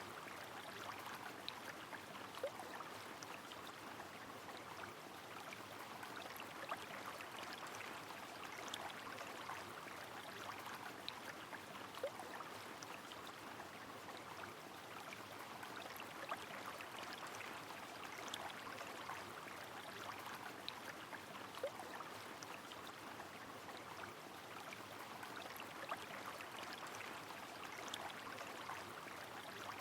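A river's steady running water mixed with falling rain, with scattered sharp drip-like ticks throughout.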